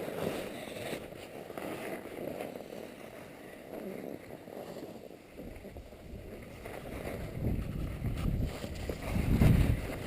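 Skis sliding over snow with wind buffeting the microphone; the low rumble builds from about halfway through and is loudest near the end.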